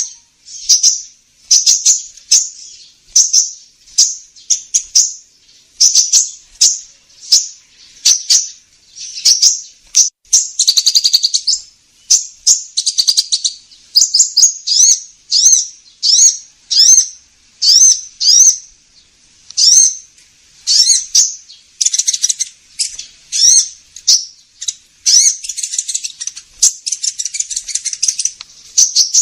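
A sunbird of the kind Indonesian bird-keepers call 'kolibri ninja' calling: a lure recording of short, high, rapid chirps repeated about once a second, with denser trilling runs about a third of the way in and near the end.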